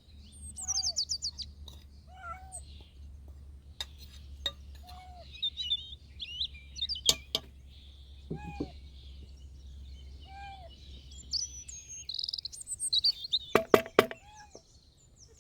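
Small birds chirping and singing in quick high trills, with a short lower call repeating about every two seconds. There are a few sharp clicks around the middle and near the end, over a low steady rumble.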